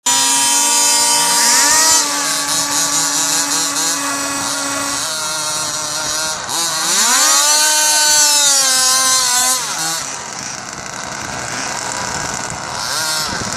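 Small two-stroke gasoline engines of large-scale RC cars revving. Their pitch holds steady, then rises and falls, loudest around the middle, and the sound drops back to a quieter run after about ten seconds.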